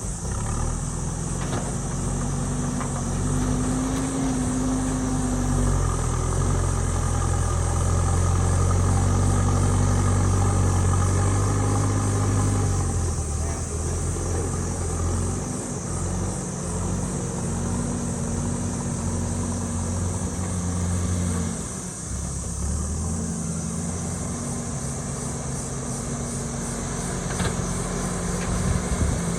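JCB backhoe loader's diesel engine working, its note rising and falling with the load; it runs hardest from about seven to twelve seconds in and eases off twice.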